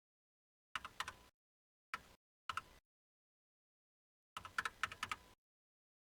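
Four short groups of sharp clicks and taps separated by silence, the last and longest near the end, from work at a desk while the page-count test is being written down.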